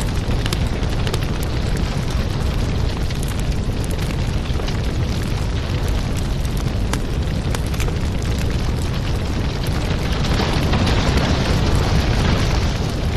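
Wood fire in a fireplace crackling, with many sharp pops over a steady low rumble and hiss; the hiss swells louder near the end.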